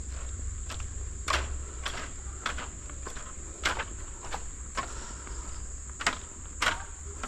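Footsteps at an even walking pace, a step about every half second, over a steady high-pitched drone of insects.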